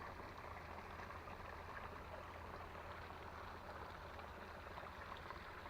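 Faint, steady rush of a small creek's flowing water.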